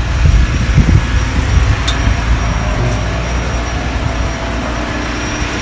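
Chevrolet Caprice V8 idling steadily just after a cold start, warming up; a smooth, even low rumble, running "like a sewing machine".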